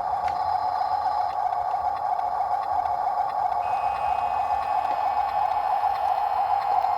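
Heavy machinery, most likely the excavator's diesel engine, running as a steady, unbroken drone.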